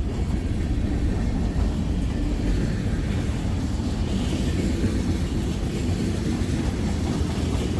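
Freight train of tank cars rolling past, a steady rumble of wheels on the rails.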